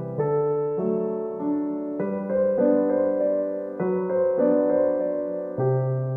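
Background piano music: a gentle, slow piano piece with notes and chords changing about once a second.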